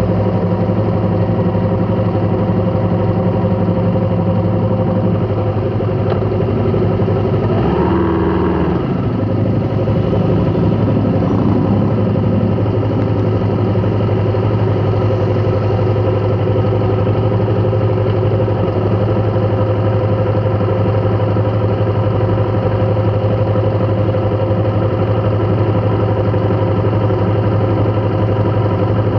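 A vehicle engine running steadily at a constant speed, with a brief change in pitch about eight seconds in.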